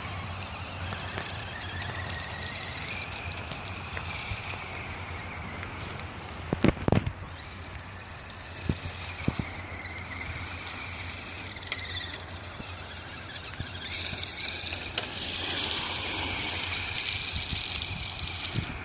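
Electric motor and gears of a radio-controlled mud truck whining, the pitch rising and falling with the throttle. A few sharp knocks come about seven seconds in, and the whine grows louder and higher for the last few seconds.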